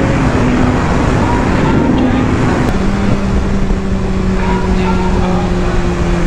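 BMW S1000RR's inline-four engine running steadily at speed under heavy wind rush. The engine note drops to a lower steady pitch about two and a half seconds in.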